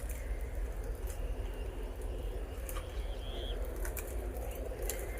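Outdoor ambience: faint bird calls, including a short chirp about three seconds in, over a steady low rumble, with scattered light clicks.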